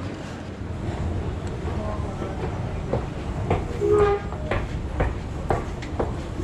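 Footsteps at a walking pace, about two a second, over a steady low rumble.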